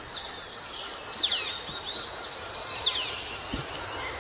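Tropical rainforest ambience: a steady high insect drone, with short falling chirps from a small animal repeating in quick runs.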